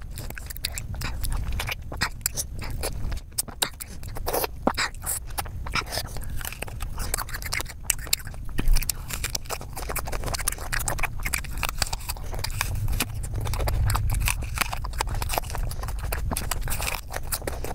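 Close-miked chewing of juicy fruit, dense wet clicks and smacks from the mouth. About halfway through comes one loud crisp bite into an apple.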